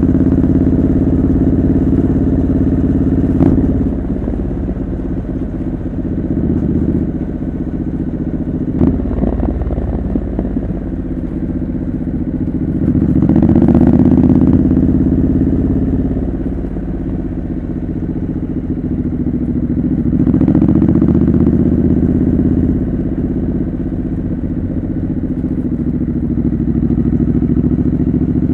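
Triumph Scrambler 900's parallel-twin engine running through a homemade custom exhaust while riding, its pitch rising and falling as the revs go up and down, with wind noise on the microphone.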